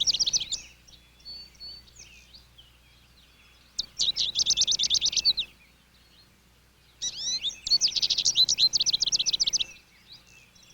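A small songbird singing rapid trills: three bursts of quickly repeated high notes, each lasting one to two and a half seconds, with a few softer chirps between.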